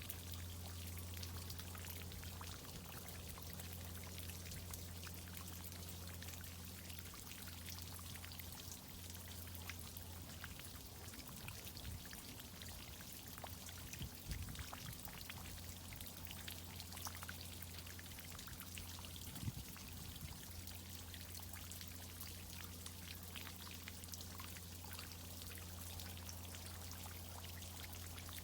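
Water from a tree-watering irrigation system pouring and spattering, with a steady low hum underneath. A couple of brief knocks come through, the louder one about twenty seconds in.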